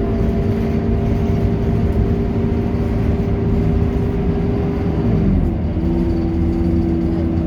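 Scania K230UB Euro 4 city bus running along, its diesel engine making a steady drone with several steady tones. About five seconds in, the engine note dips and then settles at a new pitch.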